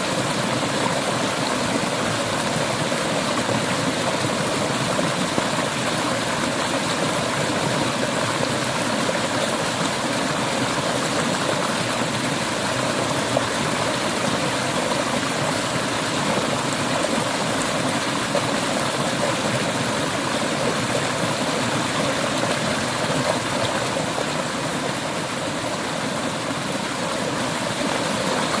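Clear mountain river water flowing and gurgling steadily.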